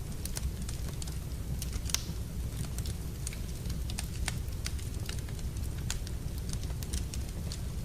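Wood fire in a fireplace crackling: irregular sharp pops and snaps over a steady low rumble, the loudest pop about two seconds in.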